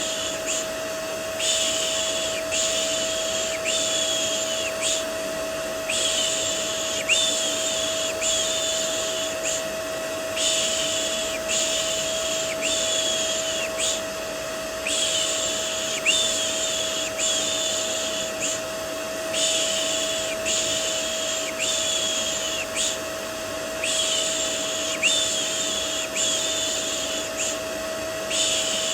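Vacuum cleaner running with a steady hum, overlaid with a rhythmic 'shh' shushing sound for soothing a baby, repeated in runs of strokes with brief pauses between.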